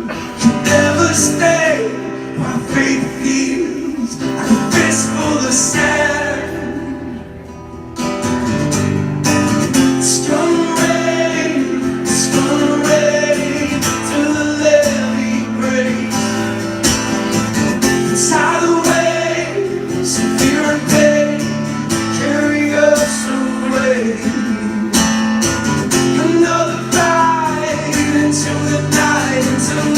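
Live band music with guitars, a rock song played at full volume; the music thins out briefly before the full band comes back in about eight seconds in.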